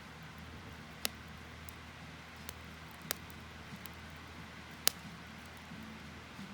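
Wood fire crackling, with three sharp pops about two seconds apart over a steady low hiss.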